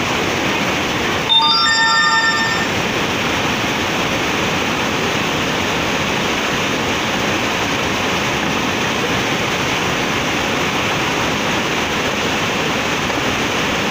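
Steady rushing of floodwater. About a second in, a brief chord of several steady tones sounds over the rush for just over a second.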